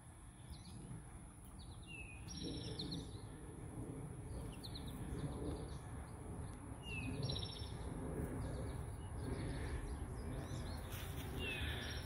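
Small songbirds chirping, with short high calls and quick down-slurred notes every few seconds, over a low steady outdoor rumble.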